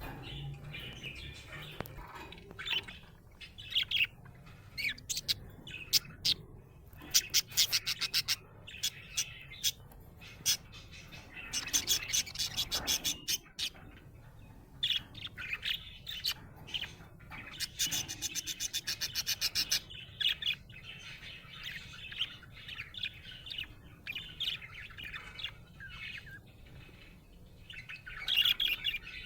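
Budgerigar chirping and chattering: a string of short chirps, broken by three fast rattling trills about seven, twelve and nineteen seconds in.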